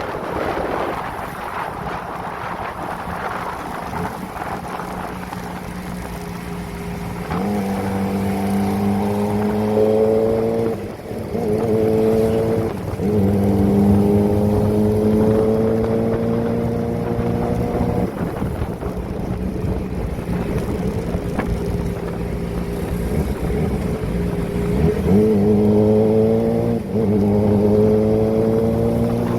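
Kawasaki ZX-25R inline-four engine through a Prospeed aftermarket exhaust, heard while riding. Wind rush dominates at first; then the engine pulls up in pitch several times under acceleration, with brief drops at the gear changes, evens out for a while, and climbs again near the end.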